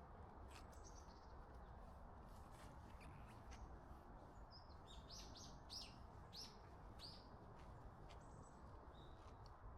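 Faint birdsong: short, high chirps, with a quick run of them about five to seven seconds in, over a steady low hiss.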